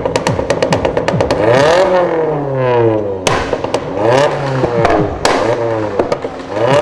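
A modified car engine revved hard several times, pitch climbing and dropping with each blip, with sharp cracks between the revs.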